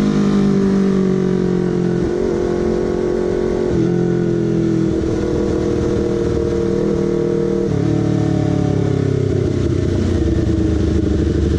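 Honda CBR250RR parallel-twin engine and exhaust running loud while riding. The engine note falls at first, then changes abruptly about two, four and eight seconds in, holding fairly steady between.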